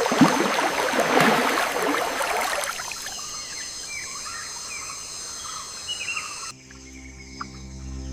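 Rainforest ambience: a steady high insect drone, with a rush of splashing water loudest in the first three seconds, then short bird chirps. About six and a half seconds in it cuts off abruptly to soft ambient music with held low tones.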